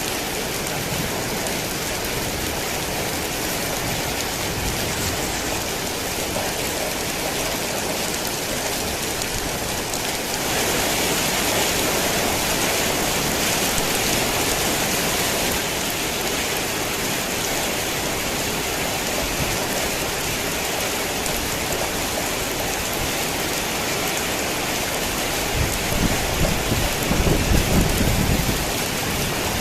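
Heavy rain falling steadily, growing louder about a third of the way in, with a low rumble of thunder near the end.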